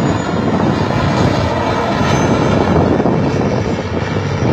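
Aircraft engine running loud and steady.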